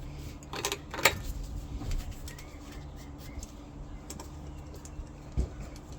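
Hand tools working on an engine: a few sharp metallic clicks and clinks, the loudest about a second in, and a dull knock near the end, over a steady low hum.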